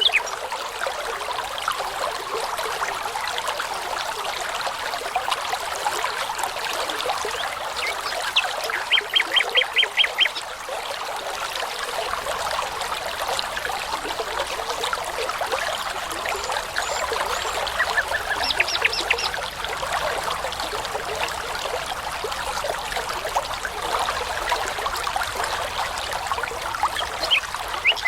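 A babbling brook trickling steadily, with a songbird singing short phrases of rapid, evenly repeated high notes three times: about nine seconds in, around eighteen seconds, and near the end.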